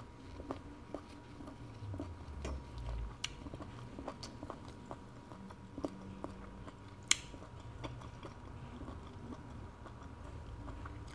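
A person chewing tough, very chewy conch meat, with small wet mouth clicks throughout. A single sharp click about seven seconds in.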